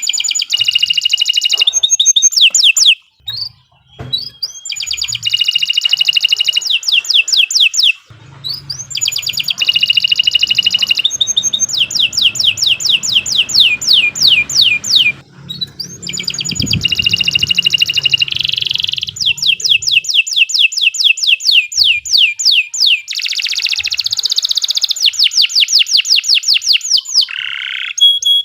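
Domestic canary singing long, loud phrases of rapid high trills and rolls, broken by a few short pauses.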